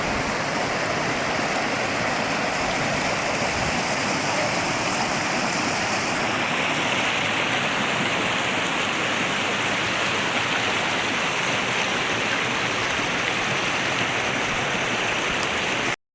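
Waterfall pouring: a steady rush of water that turns brighter and hissier about six seconds in, then cuts off suddenly near the end.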